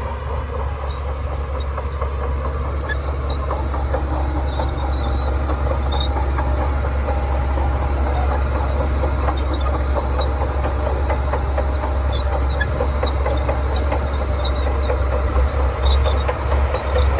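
Shantui DH17C2 crawler bulldozer's diesel engine running steadily under load, with the clatter of its steel tracks. It slowly grows louder and becomes more uneven near the end.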